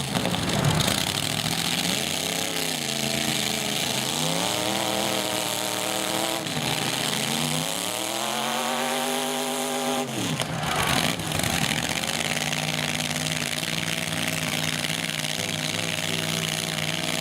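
Demolition derby truck engines revving up and down several times, then running at a steady pitch for the last third or so.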